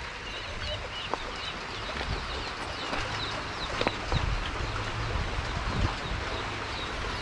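Birds calling: short, high chirps repeated again and again over a steady low rumble, with a couple of sharp clicks.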